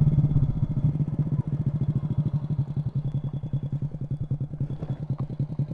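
Underbone motorcycle engine idling with an even, rapid pulse, settling from a slightly higher level in the first second as the bike comes to a stop.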